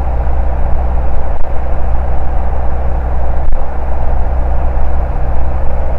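Single-engine Cessna Cardinal's piston engine and propeller droning steadily, heard from inside the cockpit.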